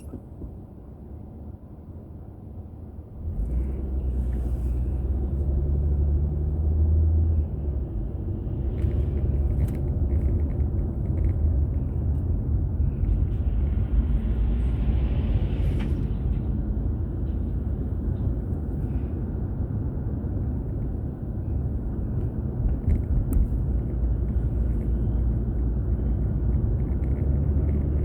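Low, steady car rumble of engine and road noise inside the cabin, picked up by a dashboard camera. It grows louder about three seconds in, and a rushing hiss rises over it for a couple of seconds about halfway through.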